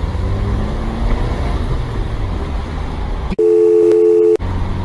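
Low, steady road rumble inside a moving car. About three and a half seconds in, a dubbed-in electronic beep of two steady tones replaces all other sound for about a second, then the road rumble returns.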